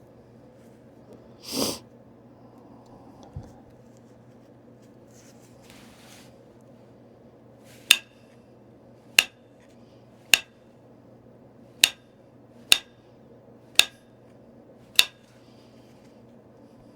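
Stone point being percussion-flaked: seven sharp clinking strikes, roughly a second apart, as flakes are knocked off its edge. A short scrape comes a couple of seconds before, near the start.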